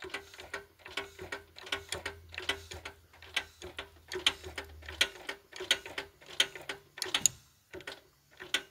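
Honda Accord engine being turned back and forth by hand with a wrench, giving a quick run of sharp metallic clicks and knocks, about four a second. This is the engine knock, which the owner traces to a valve seat ring that has come loose from the cylinder head.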